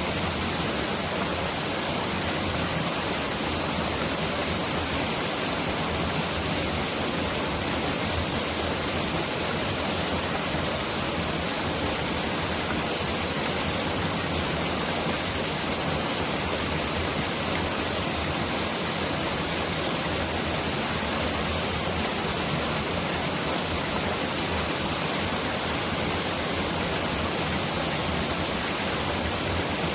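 Mountain stream rushing over rocks in a steady, even roar of water.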